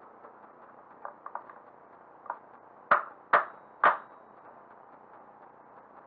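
Light tapping on an RC car's nitro engine to inch it over on its mount for the gear mesh: a few faint clicks, then three sharp, ringing taps about half a second apart.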